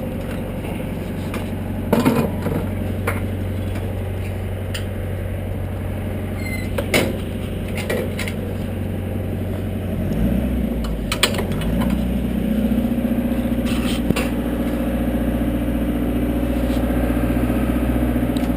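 An engine running steadily, dipping and then speeding up about ten seconds in and holding the higher speed, with a few scattered knocks and clanks.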